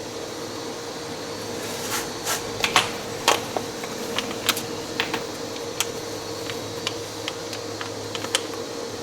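Scattered, irregular light metallic clicks and taps of hand tools and a clutch puller being handled and fitted to a CVT primary clutch, over a steady hum.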